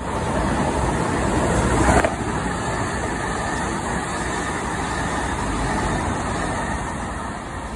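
Passenger train running along the tracks below, a steady rumbling noise of wheels on rail, with a brief louder burst about two seconds in, fading near the end as the train draws away.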